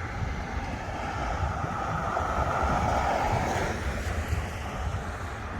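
Wind noise with a steady low rumble, swelling in the middle and easing off again; no distinct hail strikes stand out.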